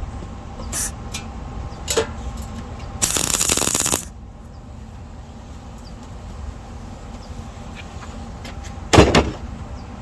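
A welder making a short tack weld on the steel battery tray: one crackling burst lasting about a second, around three seconds in. A few light clicks come before it, and a single sharp knock of metal near the end.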